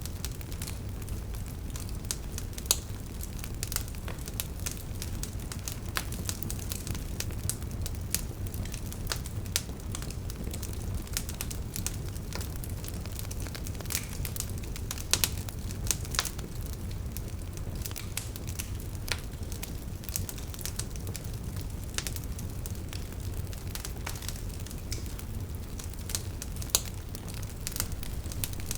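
Wood fire burning with a steady low rumble and irregular crackles and pops from the logs, a few sharper pops standing out.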